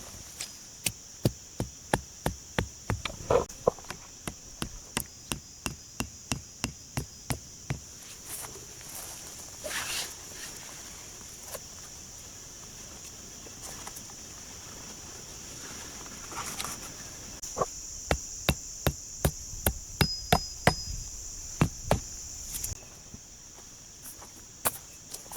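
Wood being struck in a quick series of light, even blows, about three a second, in two runs. A steady high drone of insects runs underneath.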